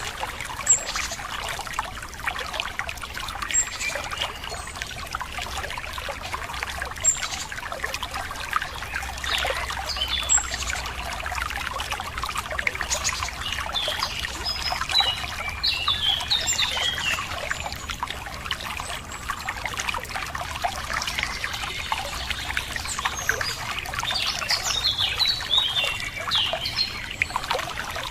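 Running water trickling and splashing steadily, with songbirds chirping and calling over it, most busily in the middle and near the end.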